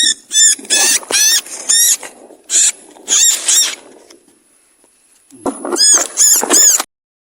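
An animal making a series of short, high-pitched squeaking calls, each rising and falling in pitch: about eight in quick succession, a pause, then four more before it cuts off suddenly.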